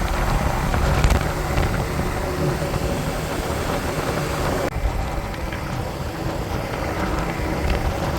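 Vehicle on the move: a steady low rumble of engine and road noise. The higher hiss drops away abruptly a little past halfway.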